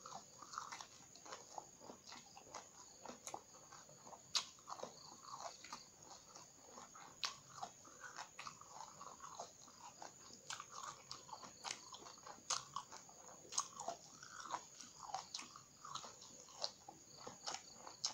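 Crunchy biting and chewing of raw round green eggplant, with frequent sharp crunches several times a second and soft wet mouth sounds in between.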